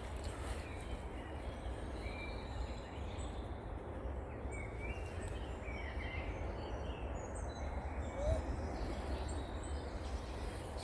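Wild birds singing, with scattered short chirps and warbles, over a steady low rumble of wind or handling noise on the phone's microphone.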